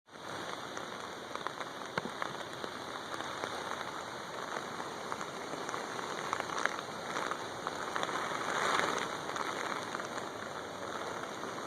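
Steady rain falling and striking surfaces, an even hiss dotted with many small drop ticks, swelling briefly about nine seconds in.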